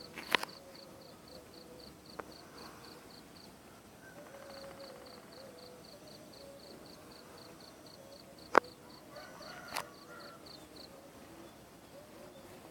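A high-pitched pulsed chirping from an insect in the tree, about four short chirps a second. It pauses for about a second around four seconds in, resumes, and stops a couple of seconds before the end. A few sharp clicks or knocks cut in, the loudest just past the middle.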